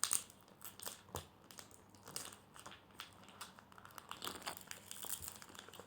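Scattered crinkling and rustling of a surprise pack's wrapper being handled and pulled at while someone tries to open it. The pack is hard to open.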